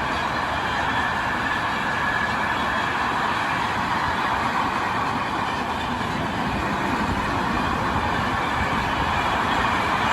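Freight train passing at close range, a steady, even rumble and rush of wagons on the rails.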